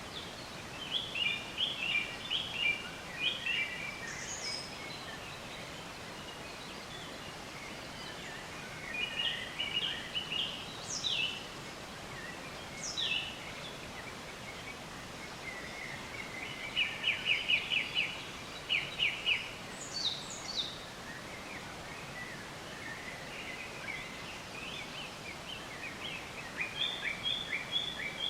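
Several birds singing over a steady background hiss of outdoor ambience: short twittering phrases and quick trills, with a few sharp falling notes, coming in bursts every few seconds.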